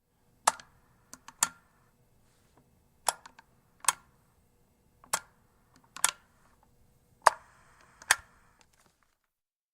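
Door intercom handset and buttons being handled: about a dozen sharp plastic clicks at uneven intervals, with a faint hum of line noise and a brief hiss just after the seventh second.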